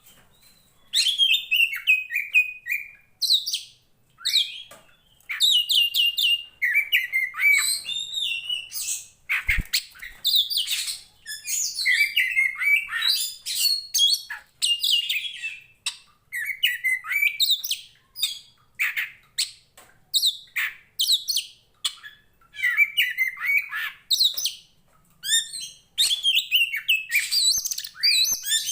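Oriental magpie-robin (the kacer poci form) in full song: fast, varied phrases of whistles, chirps and trills with rising and falling notes, broken by short pauses. This is the loud fighting song of a male in top form.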